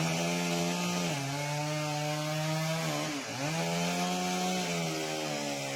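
A steady motor drone with a buzzy pitch that sags and recovers twice.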